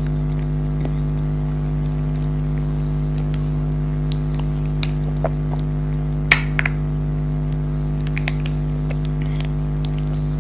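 Chewing soft gummy jelly candy: scattered small wet clicks and squishes, the sharpest about six seconds in, over a steady low hum.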